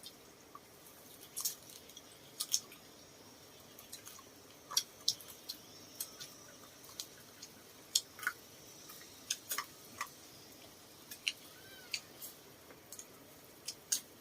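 Eating sounds at a shared meal: irregular small clicks and taps of chopsticks and bowls, with chewing.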